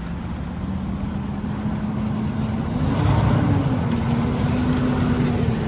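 Semi truck's diesel engine revving under load, its pitch rising about three seconds in and then settling a little lower while the sound grows louder.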